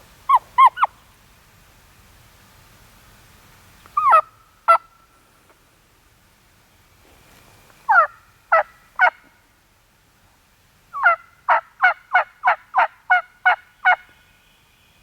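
Turkey yelps: short runs of falling notes, then near the end a steady series of about ten yelps at roughly three a second.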